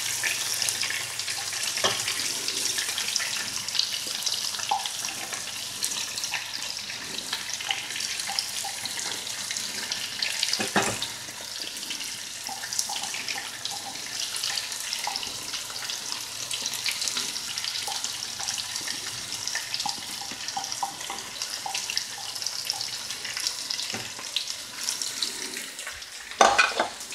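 Onions frying in butter in a pan, a steady crackling sizzle, with two sharp knocks, one about ten seconds in and one near the end.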